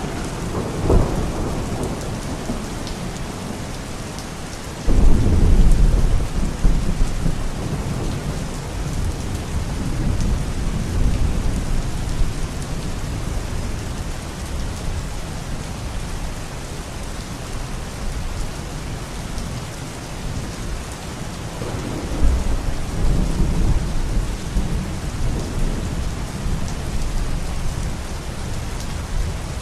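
Steady rain with rolls of thunder: a short rumble near the start, a loud deep rumble that breaks in suddenly about five seconds in and fades over a few seconds, and another rolling rumble from about twenty-two seconds in.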